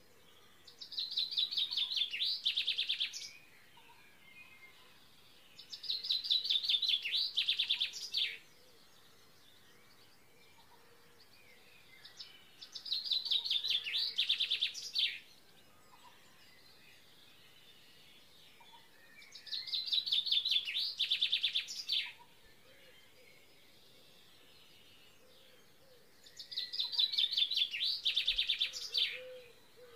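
A songbird singing the same fast trilled song five times, each phrase about two and a half seconds long with a few sharper notes at the end, over a faint steady background.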